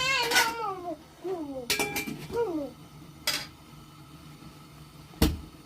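Kitchenware clinking and knocking: a few light clinks a couple of seconds in, and a single sharp knock near the end, the loudest sound. Short rising-and-falling calls are also heard in the first seconds.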